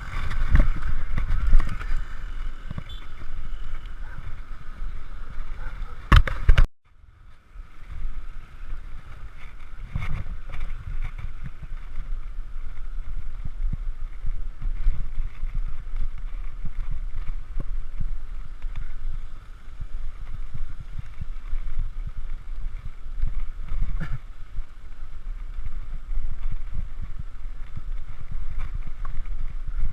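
Wind rumbling on a GoPro's microphone while cycling, uneven and gusty. A sharp knock comes about six seconds in, and then the sound cuts out for under a second.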